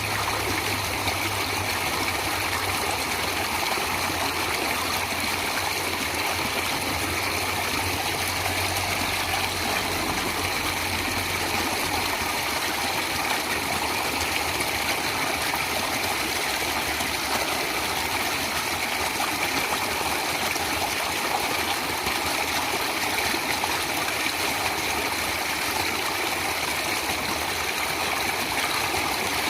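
Water of a stream flowing, a steady, unbroken rush.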